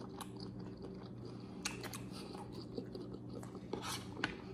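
People chewing food close to the microphone: soft mouth sounds with a few sharper crunches and clicks, over a steady low hum.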